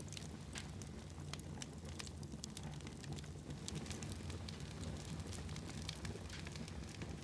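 Fire burning in a fireplace, crackling: irregular sharp pops and snaps over a steady low rumble.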